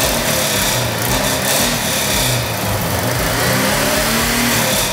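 Subaru Forester's flat-four engine running steadily with its hood open.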